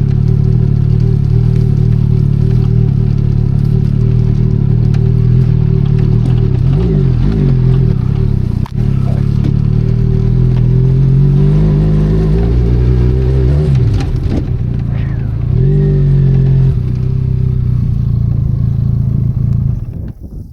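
Benelli Leoncino 500 Trail's parallel-twin engine running on an off-road ride, its pitch dipping and rising with throttle and gear changes, climbing steadily for a few seconds in the middle before falling back. Near the end the engine sound drops away sharply.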